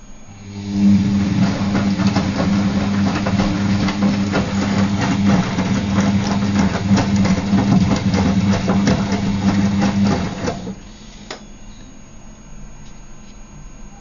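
Gala GL605T washing machine running a wash cycle: the drum motor starts about a second in with a steady low hum under dense clattering and rattling, runs for about ten seconds, then stops abruptly.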